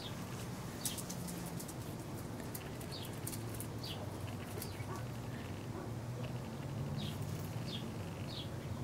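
Small birds chirping: short, high notes that drop in pitch, scattered irregularly every second or so, over a steady low hum.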